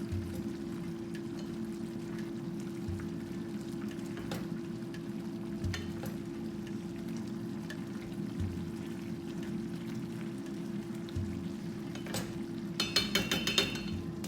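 Food sizzling and crackling in a pan over a steady low hum, with a soft low thump every few seconds. Near the end comes a quick run of clinks.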